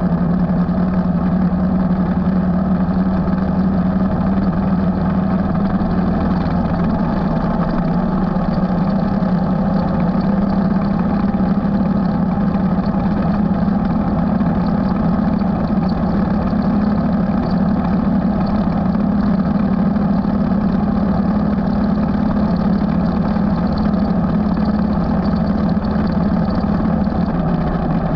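Motorcycle engine running steadily under way, a continuous drone that shifts only slightly in pitch.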